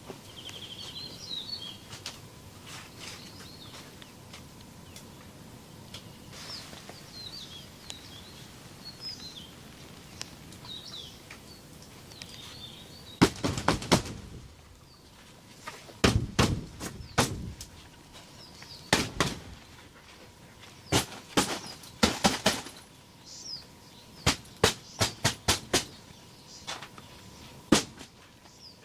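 Small birds chirping against steady outdoor background noise. From about halfway, loud sharp knocks come in quick runs of several strikes and are the loudest sounds.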